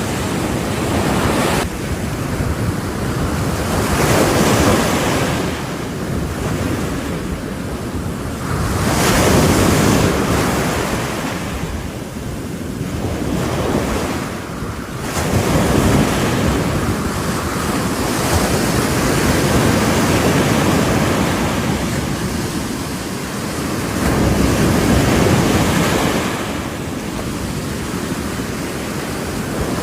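Ocean waves breaking on a shore, the surf swelling and falling back in repeated surges every few seconds, with wind rumbling on the microphone.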